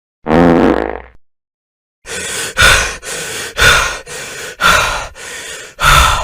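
A short voiced groan, then heavy rhythmic breathing: loud breaths alternating with softer ones, about one a second.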